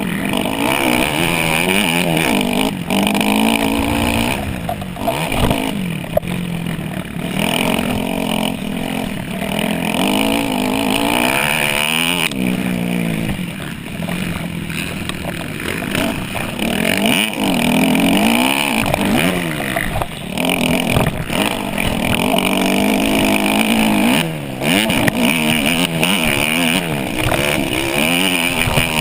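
Dirt bike engine racing hard, its revs climbing and dropping again and again with short breaks as the rider shifts and rolls off the throttle.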